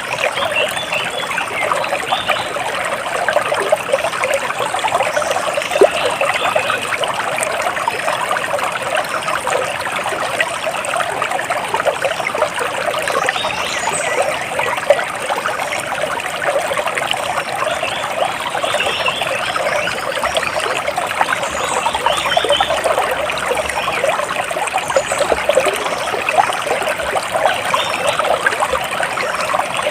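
Water trickling and splashing steadily, like a small stream, with faint bird chirps now and then.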